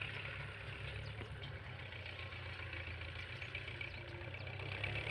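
Tractor engine running steadily while pulling a plough through a field, with a higher crackling hiss over its low engine note; it gets a little louder near the end.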